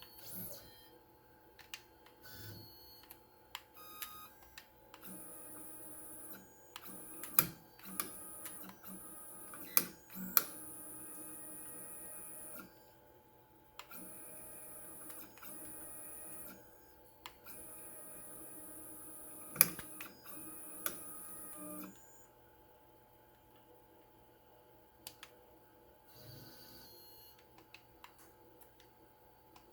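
CNC router's stepper motors whining as the gantry is jogged in short runs of a few seconds each, stopping and starting again, with sharp clicks in between. The machine is being crept into position to line a pen up under the pen changer's post.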